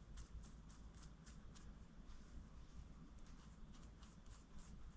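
Faint light clicks and scrapes of small metal clamp parts being handled and fitted together, scattered irregularly over a low steady room hum.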